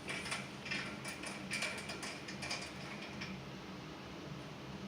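Light clicks and scrapes of small hand tools and metal valve parts being handled while packing is worked around a steam radiator valve stem: a handful of small taps in the first three seconds, fewer after, over a faint steady hum.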